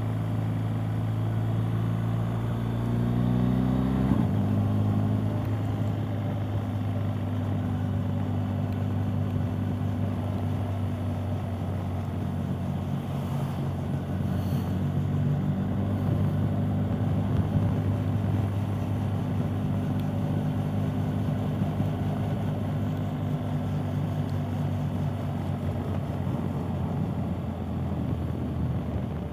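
BMW R 1250 GS Adventure's boxer twin engine climbing in revs, then dropping suddenly at an upshift about four seconds in, and running steadily after that, with wind and road noise heard through a helmet-mounted camera's microphone.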